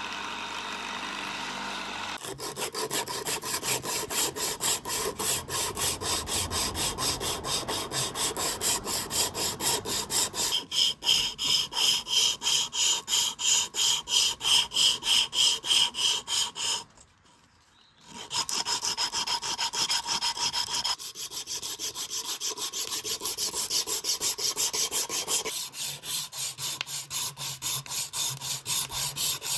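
Abrasive hand-finishing of a knife in fast back-and-forth rasping strokes, about three a second, after a steady sound in the first two seconds. The strokes break off for about a second past the middle, then go on.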